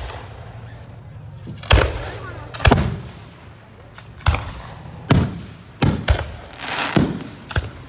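Aerial fireworks shells bursting overhead: a string of about eight loud bangs at uneven intervals, each followed by an echoing tail.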